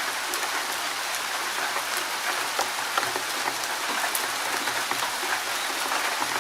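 Steady rain falling in a forest: an even hiss with many individual drops ticking close by.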